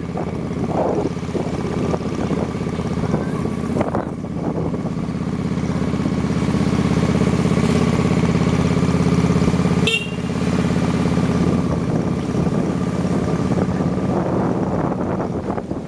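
Motorbike engine running while riding, with wind buffeting the microphone. The engine gets louder for several seconds, then drops abruptly about ten seconds in, like a gear change or easing off the throttle, and carries on.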